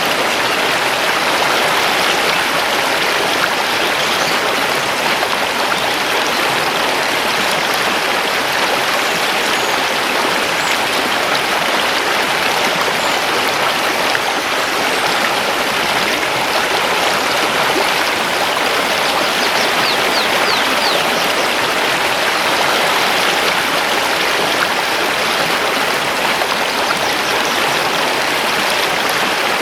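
Mountain river rushing steadily over stones, a continuous loud rushing of water.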